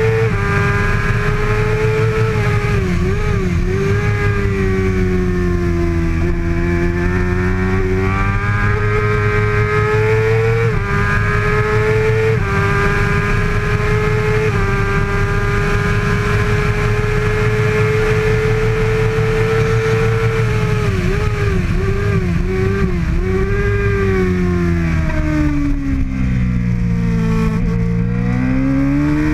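Kawasaki ZX-6R 636 inline-four engine running at high revs under racing load, with short steps in pitch as it shifts gears and several drops in revs with blips as it slows for corners. Near the end the revs fall low, then climb again.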